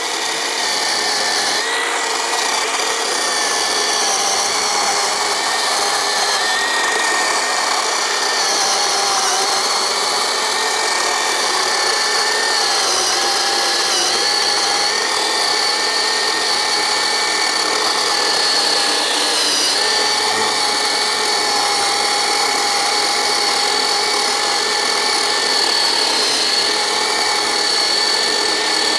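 Black & Decker GKC3630L20 36 V cordless electric chainsaw running steadily while cutting through wood, its motor whine wavering slightly in pitch as the chain works through the cut.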